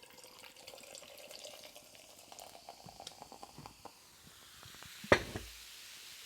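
Faint crackling and rustling with many small clicks, from takeout food containers and utensils being handled, with one sharp click about five seconds in.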